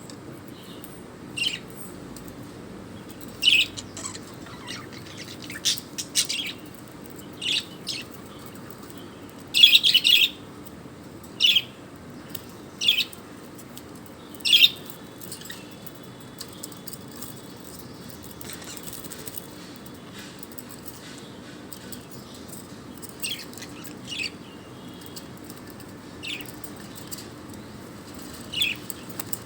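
Pet bird giving short, sharp chirps, one every second or two at first. After a gap of several seconds, a few more chirps come near the end.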